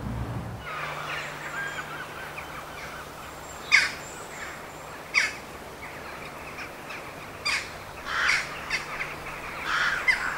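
Birds calling outdoors: about five short, loud calls spaced a second or more apart, over fainter continuous chirping, with a faint steady low hum underneath.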